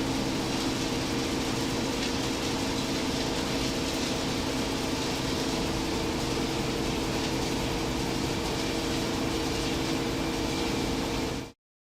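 Steady running noise of scrap-metal sorting plant machinery: an even hiss over a low droning hum with several steady tones, cutting off suddenly near the end.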